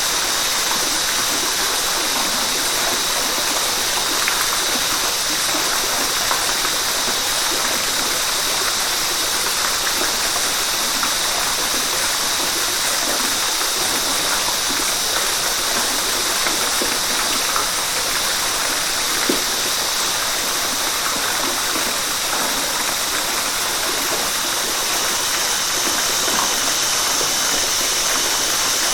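River water rushing and splashing steadily, an even hiss with a few small splashes.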